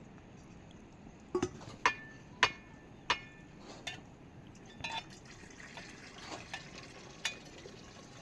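A series of short, sharp clinks of hard objects, about eight irregularly spaced over several seconds, some with a brief ringing tone, over a faint steady hiss.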